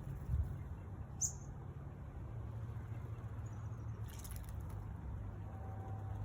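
A single short, high bird chirp about a second in, with a few faint high notes later, over a steady low hum. A brief burst of hissy noise comes about four seconds in.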